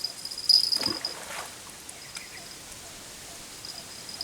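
Cricket trilling on one high pitch, loud in the first second, then fading, with faint trills again near the end. About a second in there is a brief falling whoosh.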